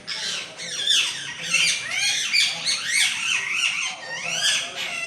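A flock of green parrots squawking, many shrill calls overlapping with no break.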